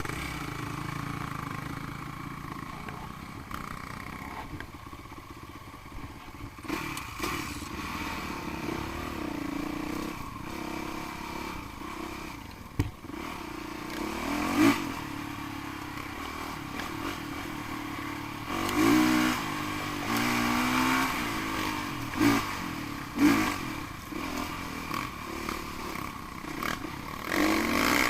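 Off-road motorcycle engines running, with several short bursts of revving in the second half.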